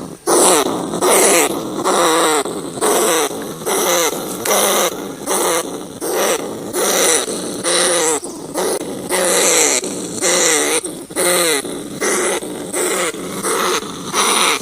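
Rat giving short, pitched, wavering squeals over and over, nearly two a second.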